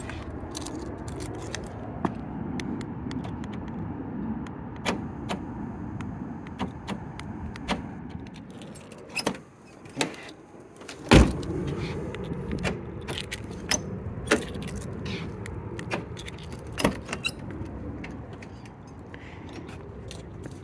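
Keys jangling with scattered clicks and knocks and one loud knock about eleven seconds in, over a steady low background hum.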